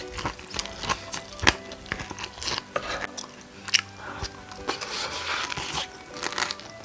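Close-miked crunching bites and chewing of crispy Korean market-style fried chicken, many sharp crackles, with soft music playing underneath.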